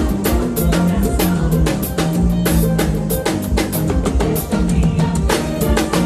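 A drum kit played in a fast, busy groove, with rapid kick, snare and rimshot hits over held bass and band notes.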